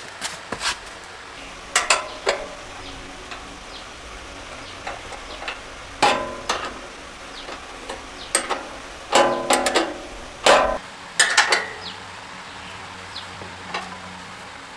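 Metal tools and parts clinking and knocking at irregular intervals, several strikes ringing briefly with a clear pitch, the loudest cluster about nine to eleven seconds in.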